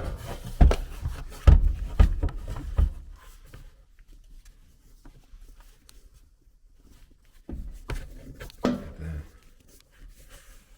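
Short knocks and clatter of handling, several in the first three seconds, then a quiet stretch, then another cluster of knocks about seven and a half seconds in.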